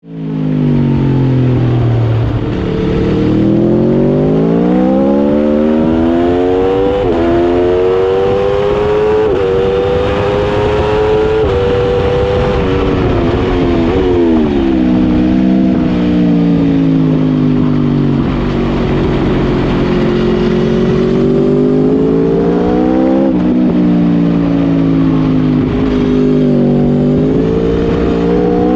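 Aprilia RSV4 1100's V4 engine at racing speed on a track: the pitch climbs for the first ten seconds with quick breaks at the upshifts, falls about thirteen seconds in as it shifts down for a corner, then rises and falls again through the next corners.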